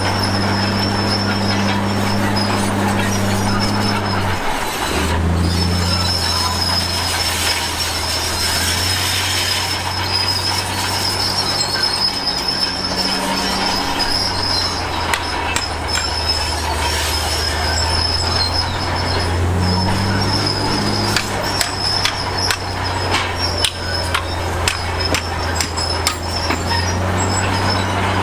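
Crawler bulldozer at work: diesel engine running steadily, its note shifting a couple of times, with a continuous high squeal and clanking from the steel tracks. Sharp clicks and knocks come thick in the second half.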